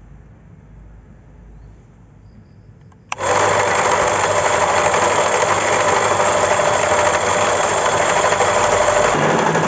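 The electric water-pump motor of a small homemade briquette extruder switches on suddenly about three seconds in and then runs steadily and loudly.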